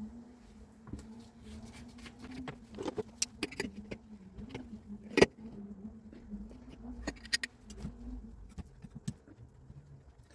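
A small electric motor hums steadily at one pitch, starting suddenly and stopping about eight seconds in. Scattered clicks and knocks, like parts and tools being handled, sound over it, the sharpest about five seconds in.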